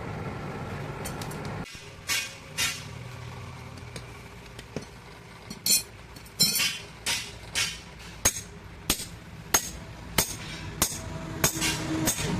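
A blacksmith's hammer striking metal, single ringing blows about every half second to a second, coming faster near the end. Before the first blow a steady pitched sound cuts off sharply.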